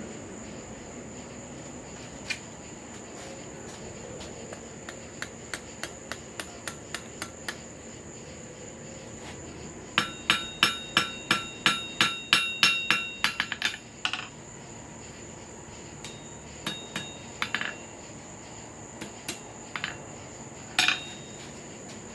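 Hand hammer striking a small hot steel workpiece, a cut flooring nail being forged into a hook, on an anvil. A few light taps, then a run of about four loud ringing blows a second for three or four seconds, then scattered single blows.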